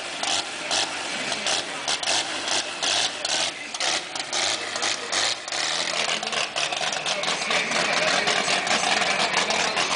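Race-prepared Chevette's engine idling with an uneven, loping beat; the beat quickens in the second half as the car moves off.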